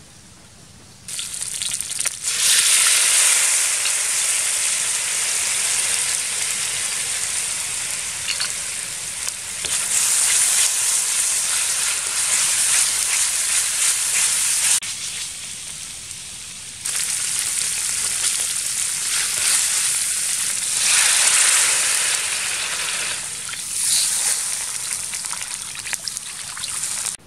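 Seasoning paste frying in hot oil in a steel wok, sizzling loudly as it is stirred with a wooden spatula. The sizzle drops away for about two seconds in the middle and then picks up again, and water is poured into the wok near the end.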